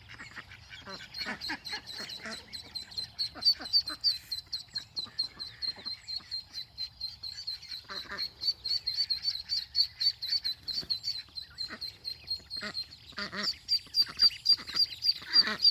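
Ducklings peeping loudly and steadily, several high chirps a second, the distress calling of babies separated from their mother. Lower, louder calls from an adult bird break in now and then, most of all near the end.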